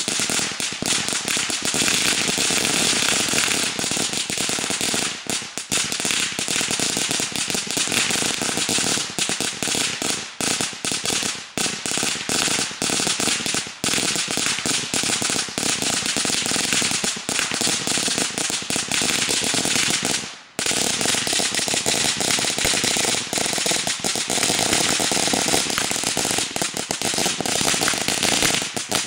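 A long string of firecrackers going off in a rapid, continuous rattle of cracks, with one brief break about twenty seconds in.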